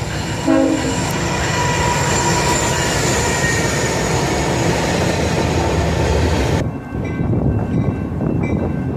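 A train horn gives a short toot about half a second in. It is followed by the loud rumble and rattle of a passing train, with thin steady high-pitched whines over it. About two-thirds of the way through, the sound drops abruptly to a quieter train noise.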